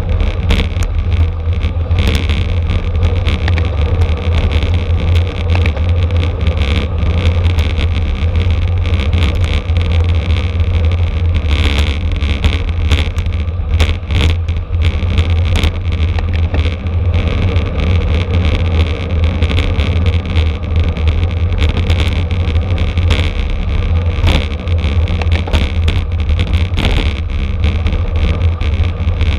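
Steady, loud wind buffeting and low rumble on the microphone of a camera riding along on a racing bicycle, with road and drivetrain noise underneath.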